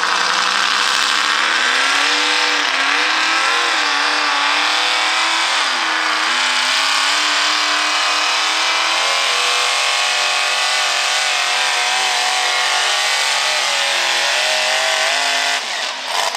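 Single-engine modified pulling tractor running at full throttle through a pull. The engine pitch climbs over the first few seconds, then holds high with wavering rises and falls, and drops away abruptly just before the end.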